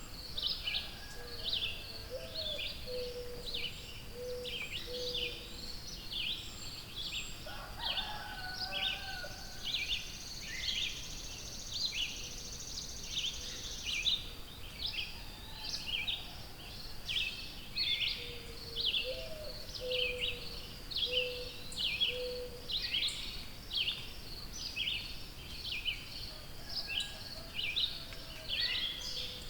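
Several songbirds singing together: a steady stream of high chirps, about two or three a second. A lower run of short notes comes twice, near the start and about two-thirds through. A thin high trill joins for several seconds in the first half.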